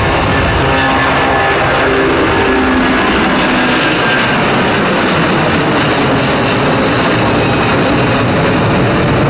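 Background music laid over the steady noise of an Airbus Beluga's jet engines at takeoff power.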